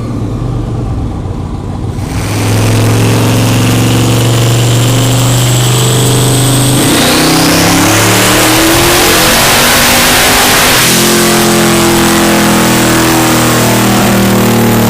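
Twin-turbocharged Camaro engine running hard under load, loud and steady from about two seconds in, with a high whine rising about seven seconds in.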